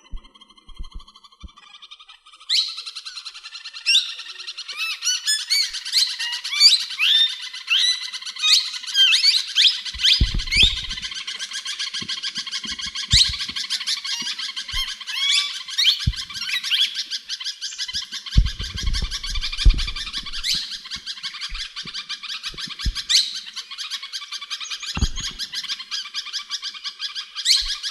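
Birds chirping and chattering without a break, a dense run of quick rising chirps that starts about two and a half seconds in. A few short low thumps sound now and then.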